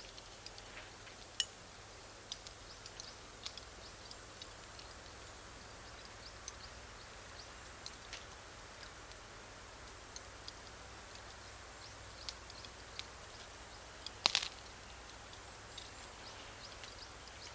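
Wood and cut-charcoal fire crackling, with sharp pops scattered irregularly and a louder cluster of snaps about 14 seconds in.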